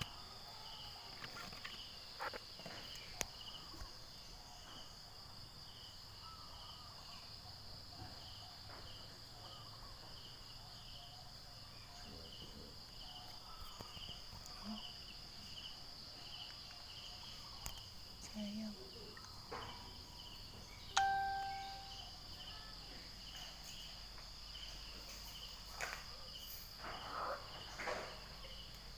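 Insects chirping steadily, a high continuous trill with evenly repeating pulses beneath it. About two thirds of the way through, one sudden ringing tone fades out over a second or so, and a few soft knocks follow near the end.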